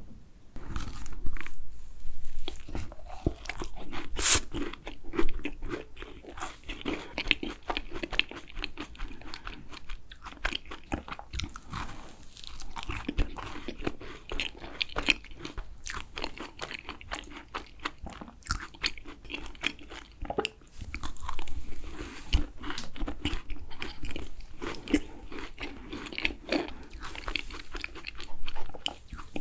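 Close-miked eating of macarons: crisp shells crunching under the bite and steady wet chewing, with a sharp loud crack about four seconds in.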